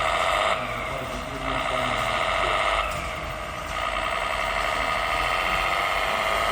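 Whine of the small electric motors and gearboxes of radio-controlled model construction trucks at work, dipping twice and then holding steady.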